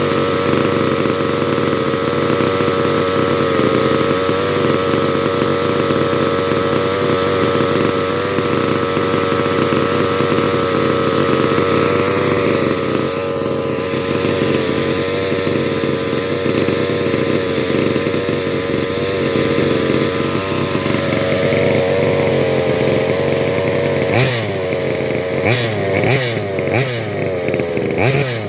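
Rovan 1/5-scale RC car's 30.5cc two-stroke engine with dual exhaust, running steadily at a fast idle. Over the last few seconds it is revved in a series of quick blips.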